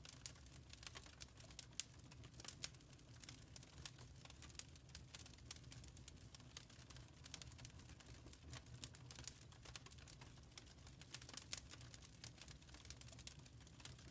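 Wood fire crackling in a fireplace: faint, irregular pops and snaps over a low, steady rumble.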